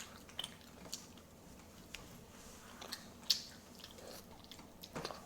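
Faint sounds of people eating: scattered soft clicks and chewing, with one sharper click about three seconds in.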